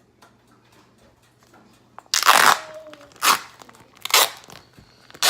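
Plastic bacon package being torn open and handled: after a quiet start, a few loud crinkling, tearing rushes of noise come about a second apart, starting about two seconds in.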